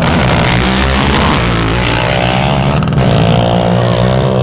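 Off-road vehicle engines running loudly at the dunes, with one engine's pitch rising about two seconds in as it revs.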